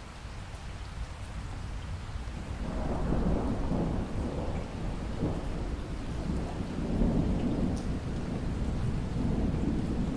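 Steady rain with a long roll of thunder that swells in about two and a half seconds in and keeps rumbling.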